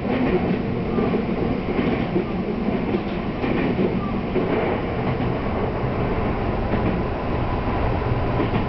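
Tokyu Toyoko Line electric train running along the line, heard from inside the front car: a steady rumble of wheels on the rails with a few faint clicks.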